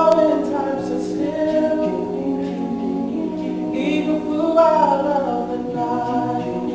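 A men's a cappella group singing in close harmony: held chords from the backing voices, with a higher lead voice moving between notes above them.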